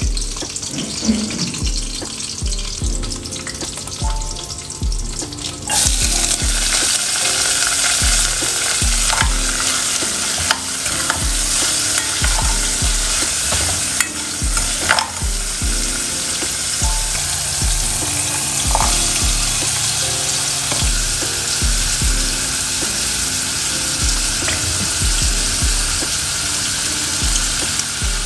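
Chopped vegetables frying in a hot pot: a loud sizzle starts suddenly about six seconds in and keeps on steadily, with a ladle stirring and knocking against the pot a few times.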